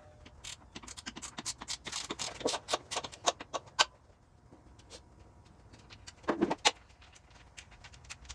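Hand tools clinking and knocking on the metal housing and bolts of a wood chipper being taken apart: a run of quick metallic taps and clicks, then a short cluster of knocks near the end.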